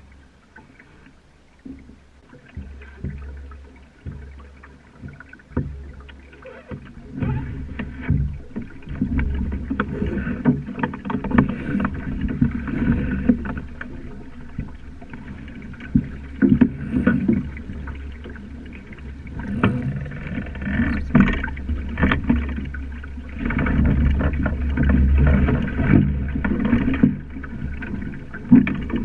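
Sailing dinghy under way: water rushing and slapping along the hull and wind buffeting the microphone, growing louder from about seven seconds in, with frequent short knocks of the boat's gear.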